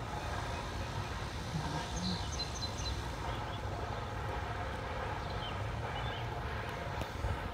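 Outdoor background: a steady low rumble, with a few short, high chirps about two seconds in.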